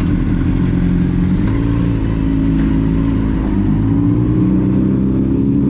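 Car engine pulling away and accelerating, its pitch rising in steps about one and a half and four seconds in.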